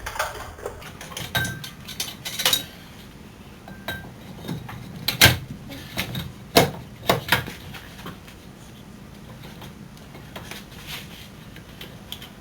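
Metal clinks and knocks from handling a car's front brake caliper and its bolts as it is fitted back over a new brake rotor, the loudest knock about five seconds in and a few more soon after.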